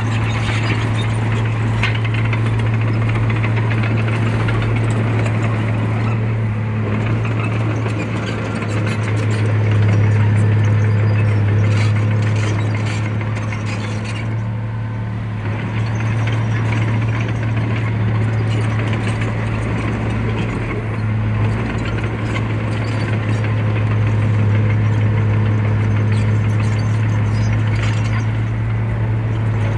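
Heavy diesel engine of earthmoving equipment running steadily under load, with a continuous metallic rattle and clatter over the low engine hum; it grows louder around ten seconds in and again near the end.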